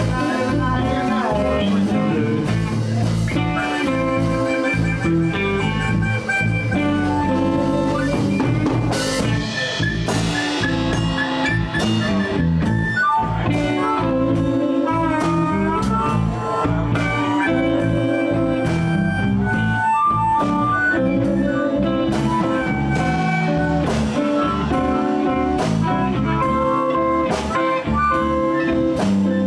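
Live blues band playing: electric guitars, bass, drum kit and harmonica together in a steady groove, with some bent notes.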